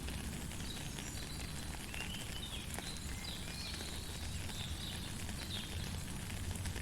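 Steady rain falling, with a low rumble underneath and many short high chirping calls over it.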